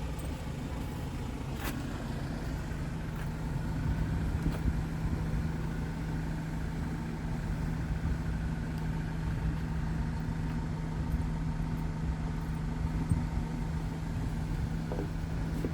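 Scania R tractor unit's diesel engine idling steadily, with a faint whine above the hum and a short click about two seconds in.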